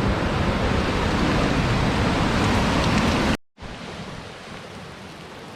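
Steady rushing of heavy water at Nooksack Falls. About three and a half seconds in it cuts off abruptly, and a quieter, steady rush of river water follows.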